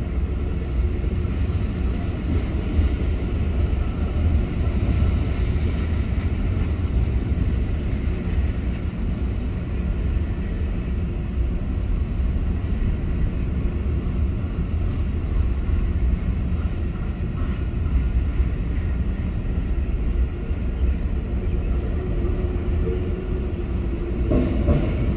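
Freight train rolling past: a steady low rumble of wheels on the rails.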